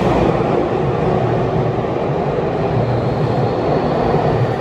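Yokohama Minatomirai Railway Y500 series electric train pulling out of an underground station platform, its running noise loud and steady. A faint rising whine comes in from about halfway through as it picks up speed.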